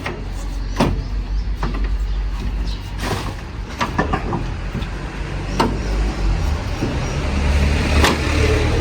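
A car engine running with a steady low rumble, with a series of sharp clicks and knocks over it.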